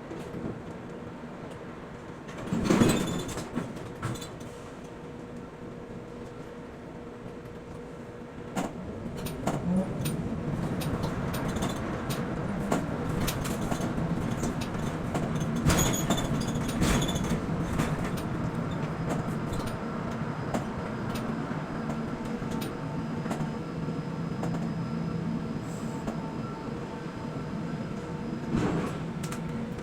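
Quay container crane working: a steady hum of its drive machinery with held tones, getting louder about ten seconds in, broken by a few loud metallic knocks, the loudest about three seconds in.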